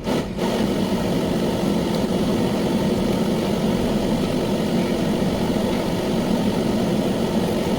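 Volkswagen Jetta running at idle, heard from inside the car: a steady, even hum and rush that starts suddenly right at the beginning.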